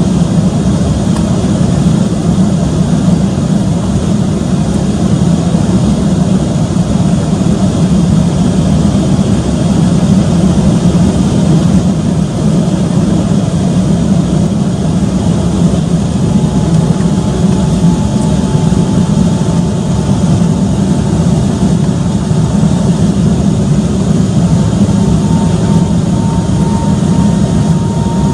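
Steady in-cabin noise of an Embraer 195-E2's Pratt & Whitney geared turbofan engines running at power, a dense low rumble. About halfway through, a faint thin tone creeps in above it and rises slowly in pitch.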